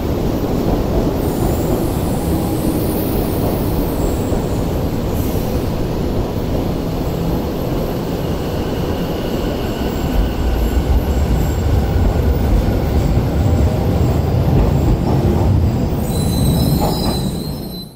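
Electric commuter train at a station platform, its running rumble swelling from about ten seconds in, with faint high tones over it, then fading out at the very end.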